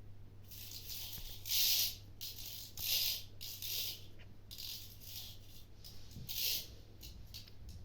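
A series of about six short rattles, each under half a second and roughly a second apart, over a faint steady low hum.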